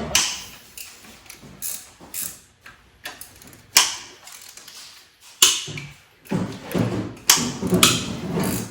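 Irregular metallic clicks, clinks and knocks of hand tools and engine parts being handled during an engine teardown, with a busier run of clatter near the end.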